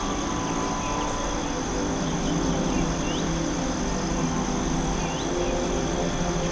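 Forest ambience: a steady high insect drone with a few short rising bird chirps, about three and five seconds in, over a low steady hum.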